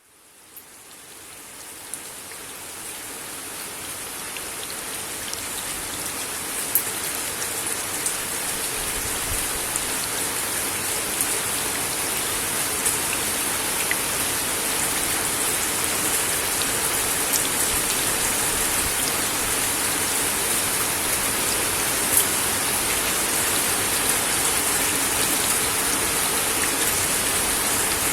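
Steady rain falling on a wooden deck, fading in over the first few seconds, with scattered sharper drop taps.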